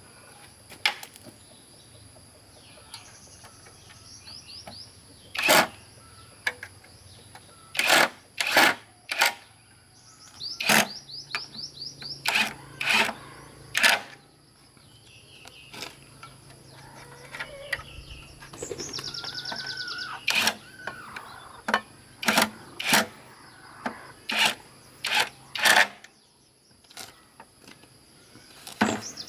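A series of sharp, irregular clicks and knocks, with birds twittering in short rapid trills between them.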